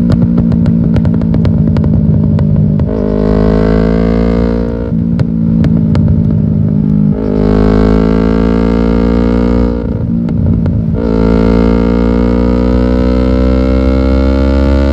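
Yamaha R6 inline-four sportbike engine through an aftermarket exhaust, ridden under way: the exhaust note climbs in several stretches broken by gear changes, with rapid crackling in the first few seconds and again at some of the shifts.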